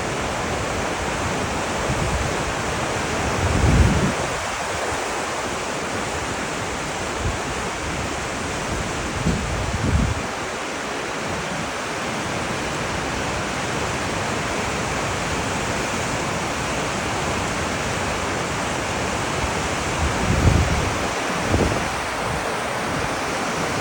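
Whitewater rapid rushing steadily on a river running high, with a few brief low thumps: one about four seconds in, one around ten seconds, and two close together near the end.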